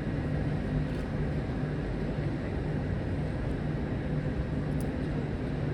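British Rail Class 52 'Western' diesel-hydraulic locomotive D1015, its twin MTU V12 diesel engines running at a steady, even pitch.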